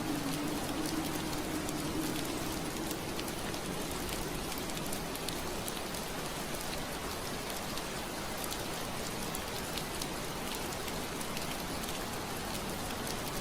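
Steady rain on window glass, an even hiss with scattered sharper drop ticks. A low hum fades away over the first couple of seconds.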